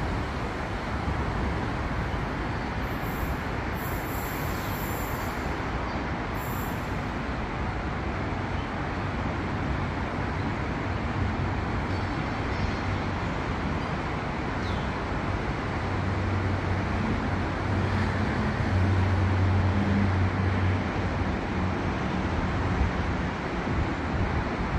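Steady noise at an open elevated rail station, a traffic-like rumble, as an SRT Red Line electric commuter train moves off into the distance. A low hum swells for a few seconds about two-thirds of the way in.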